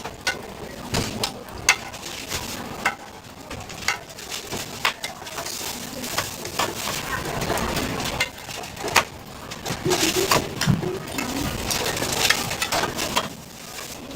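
Scattered sharp clicks and clinks of metal cooking utensils against pans and trays at a street-food stall, over a low background hum.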